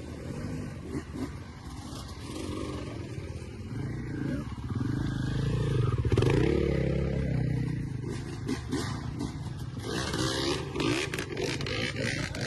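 Dirt bike engine running under way, revving up and down with the throttle and loudest about halfway through.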